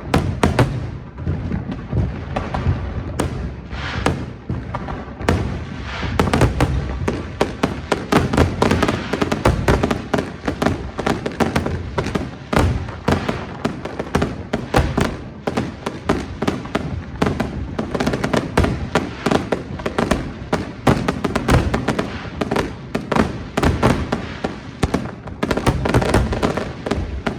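Fireworks display: a dense, continuous barrage of firework bursts and crackles with no pause.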